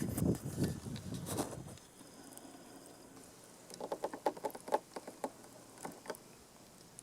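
Wood campfire crackling and popping in a quick cluster, after a louder burst of rustling and knocks in the first two seconds.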